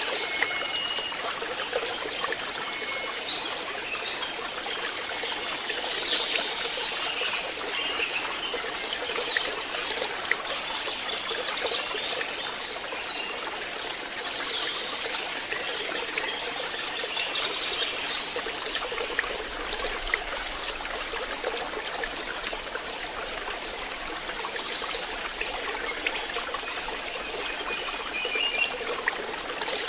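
Water steadily trickling and splashing into a fish pond.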